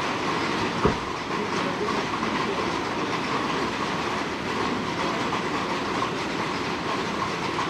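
Heavy rain falling steadily, an even hiss of drops, with one sharp knock about a second in.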